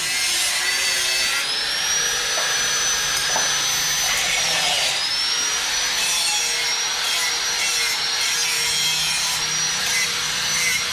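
A high-speed power tool running steadily under load. It makes a high whine over a grinding hiss, and the whine dips briefly a little before five seconds in, then picks back up.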